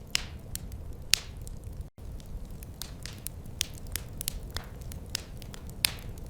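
Wood fire crackling in a fireplace: irregular sharp pops and snaps over a steady low rumble of flame, with a few louder pops. The sound cuts out for an instant about two seconds in.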